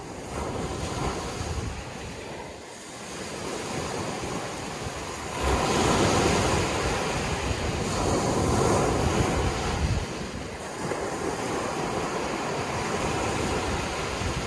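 Sea waves breaking and washing on the shore, a wash of surf noise that swells sharply about five seconds in and eases off after about ten seconds, with wind buffeting the microphone.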